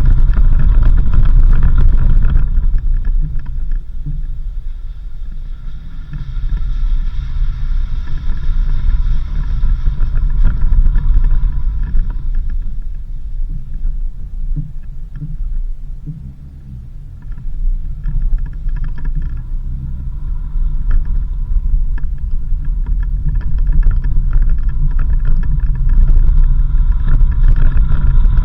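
4x4 vehicle driving on a country road: engine running with a low rumble, easing off through the middle and building up again toward the end.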